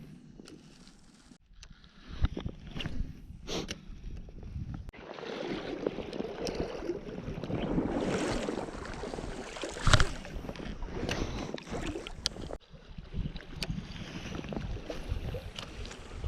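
River water sloshing and splashing around an angler's waders as he wades, with wind on the microphone and a few knocks. The loudest knock comes about ten seconds in.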